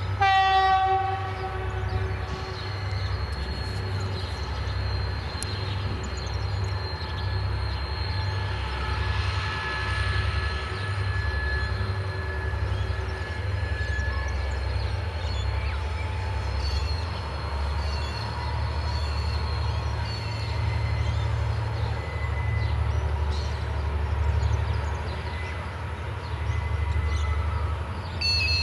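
Coal train's diesel locomotives sound a short horn blast right at the start. Then the steady low rumble of the locomotives and loaded coal wagons goes on, with a thin high-pitched squeal over it for a while.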